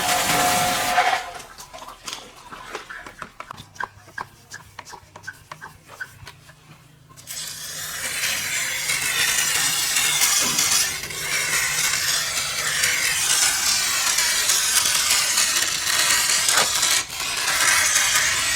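A steady hiss cuts off about a second in, followed by a run of light clicks, then steady scrubbing and rubbing from about seven seconds on, in repeated strokes.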